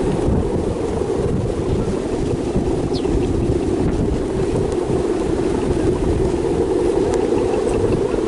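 Strong wind buffeting the microphone: a loud, steady, low rushing rumble.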